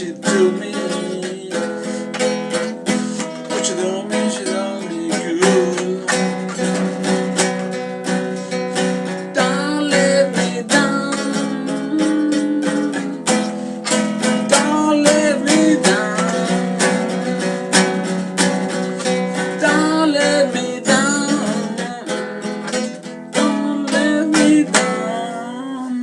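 Acoustic guitar strummed in a fast, steady rhythm, with a singing voice gliding over it in places.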